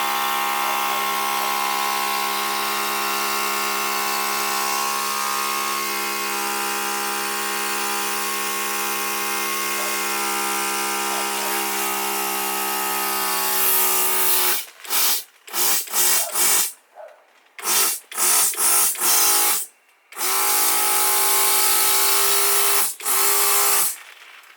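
Electric balloon pump running steadily while inflating a plastic beach ball. About two thirds of the way through it is switched on and off in a run of short bursts, then runs for a few seconds more before a last short burst.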